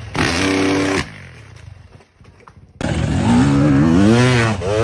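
Motocross bike engines: one holds a steady note for about a second and fades, then after a short lull a sudden cut brings in another bike revving loudly, its pitch rising and falling.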